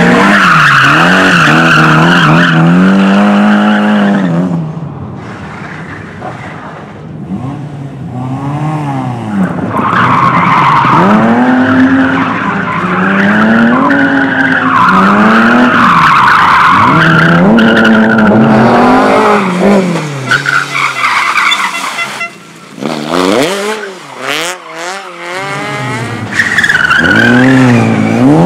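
Race car engine revving hard, its pitch climbing and dropping again and again as it accelerates, shifts and brakes through a slalom course, with tyres squealing. The engine goes quieter and uneven twice, briefly near the start and again late on.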